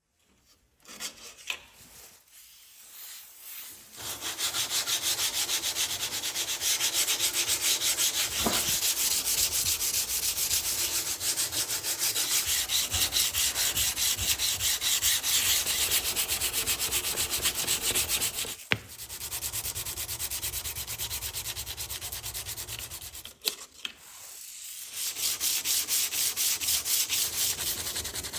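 Sandpaper rubbed by hand back and forth along a heat-treated leaf-spring steel knife blade, in quick, even strokes. It starts after a few seconds of light handling, stops briefly about two-thirds of the way through, then goes on again after a short lull near the end.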